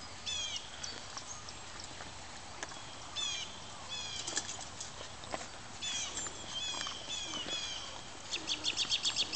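Songbirds chirping, with repeated short high notes that fall in pitch and a quick rapid trill near the end.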